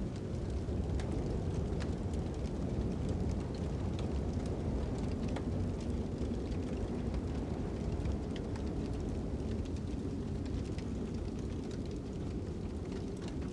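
Fire crackling with scattered small pops over a steady low rumble of wind.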